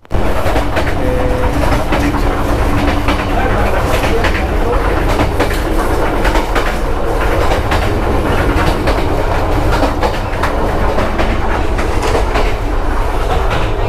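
Passenger sleeper train running along the track: a steady low rumble from the carriage with the wheels clacking over rail joints.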